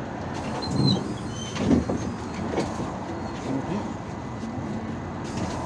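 Passenger-cabin ride noise of an IVECO Urbanway 18M articulated city bus under way: steady running and road noise with short rattles and knocks, the loudest about one and two seconds in.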